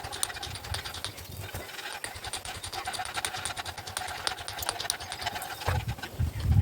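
Irregular light taps and clicks of brick and tool work, with a few heavier low knocks near the end and a faint steady hum underneath.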